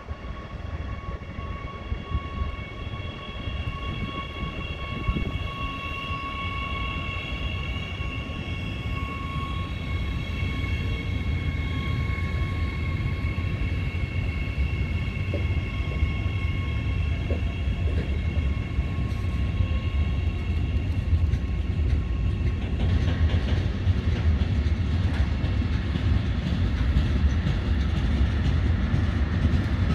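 Electric freight train passing: the locomotive's steady high whine of several tones over a low rumble, then, a little over twenty seconds in, a louder rumble and clatter of freight wagons rolling over the rails.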